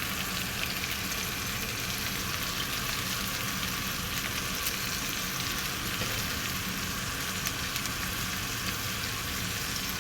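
Chopped vegetables frying in hot oil in a pan: a steady sizzling hiss with scattered small pops.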